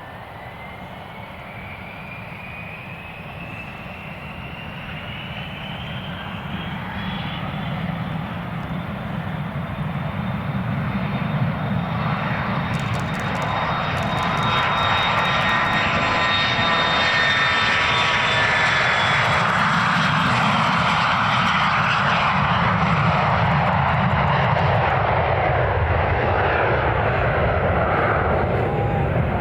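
Bombardier Challenger 350 business jet's twin Honeywell HTF7350 turbofans at takeoff power: a thin whine rises in pitch over the first several seconds while the jet noise grows steadily louder, reaching full loudness about halfway through and staying loud to the end.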